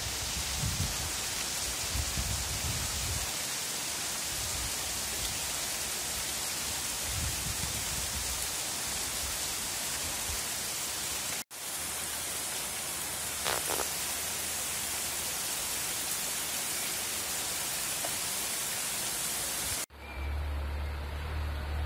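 Heavy rain pouring down, a dense steady hiss with a low rumble coming and going beneath it. The sound breaks off sharply twice, at about eleven and a half seconds and at twenty seconds; after the second break the hiss thins and a steady low rumble takes over.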